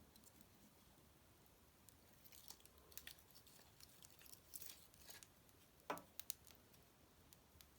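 Wood fire in a fireplace crackling, with scattered sharp snaps and pops and one louder pop about six seconds in.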